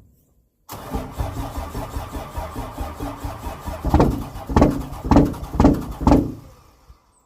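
Dodge Cummins inline-six turbodiesel being cranked over by its starter in a -8°F cold start. About three seconds of fast, even cranking are followed by five loud heavy pulses about half a second apart, then the sound dies away without settling into an idle.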